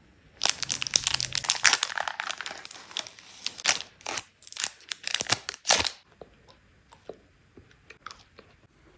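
Candy wrapper crinkling and tearing in dense crackles for about five and a half seconds, then a few faint clicks and taps.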